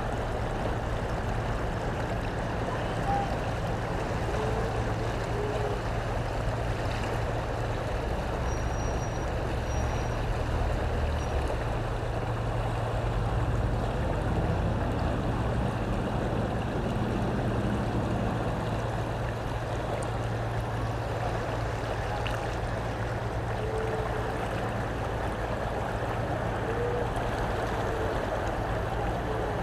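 Steady rushing of the River Severn in flood, over a constant low hum, with a few faint short chirps.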